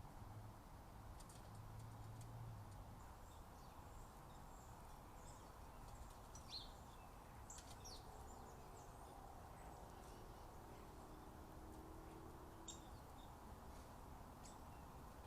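Faint, scattered short bird chirps and calls over a low steady background hiss, with a few quick falling notes about halfway through.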